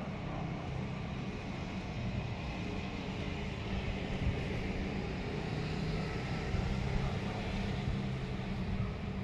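Distant train approaching the station: a steady rumble that grows slowly louder.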